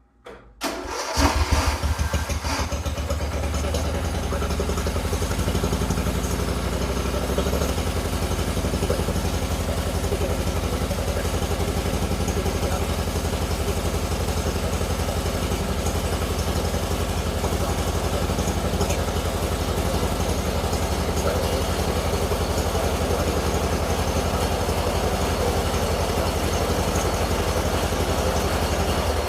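A 1997 Mastercraft 12.5/38 lawn tractor's 12.5 hp Briggs & Stratton engine is cranked about a second in and catches. It then runs steadily, its note shifting slightly about seven and a half seconds in.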